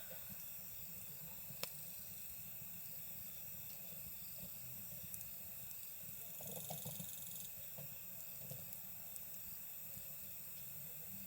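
Wood campfire crackling faintly, with one sharp pop about a second and a half in and a short run of crackles around the middle. Behind it, insects chirp steadily in high trills.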